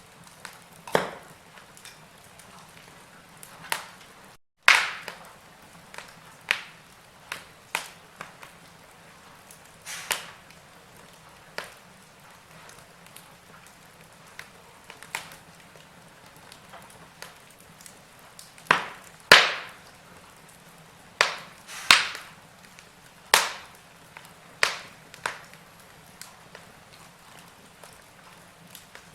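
Burning logs crackling in a fireplace: irregular sharp pops and snaps, some much louder than others, over a faint steady hiss. The sound cuts out for a split second about four seconds in.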